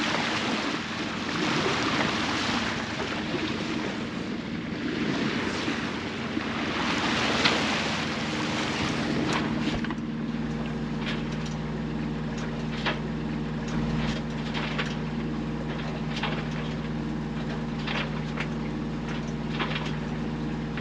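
A sailboat's engine running steadily under way while motor sailing, with wind and water noise rising and falling over it in the first half.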